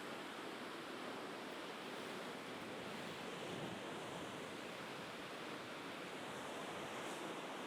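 Sea waves washing on the shore in a steady, unbroken hiss.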